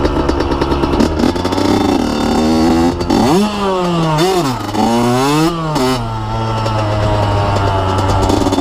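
Dirt bike engine running hard, its pitch climbing and dropping back twice, then settling to a steady low note about six seconds in.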